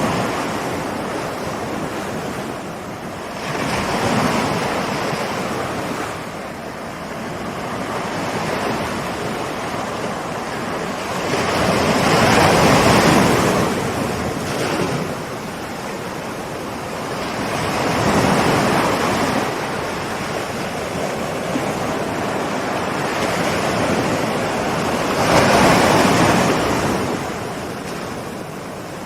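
Ocean surf rolling in and washing up, rising and falling, with four louder breaking swells.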